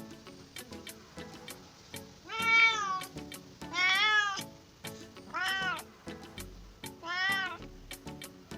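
Domestic cat meowing four times, loud, each meow rising then falling in pitch, over background music with a steady clicking beat.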